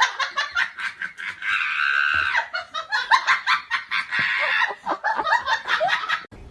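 A person laughing hard in quick, high-pitched bursts.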